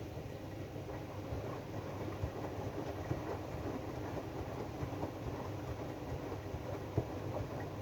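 AEG DualSense washing machine running its drum-clean programme: a steady low rumble of the turning drum, with many small irregular clicks and knocks.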